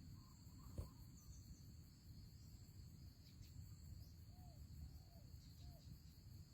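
Faint, low cooing of a spotted dove: a few short, arched coos in the second half, over a steady high insect drone. A single click about a second in.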